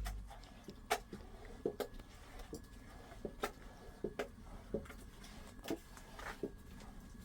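Irregular light clicks and taps, about a dozen, scattered through a quiet room, with a faint steady high tone underneath. A low hum cuts off right at the start.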